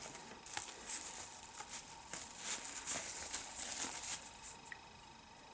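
Faint rustling and light clicks of packaging being handled, scattered irregularly.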